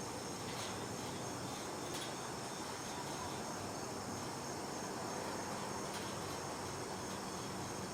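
Steady high-pitched chorus of crickets trilling, with a few faint clicks.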